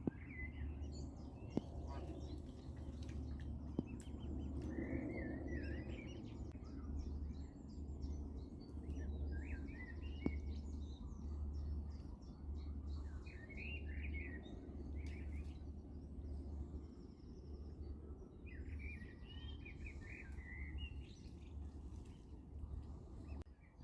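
Small birds singing and chirping in short wavering phrases over a steady low rumble, with a few faint clicks.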